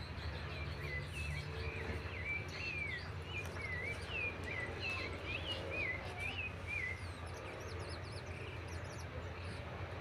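A bird calling a quick run of short swooping chirps, about two a second, for some six seconds from about a second in, with fainter high chirps near the end. Under it runs the low steady rumble of a car rolling slowly along a dirt road, heard from inside.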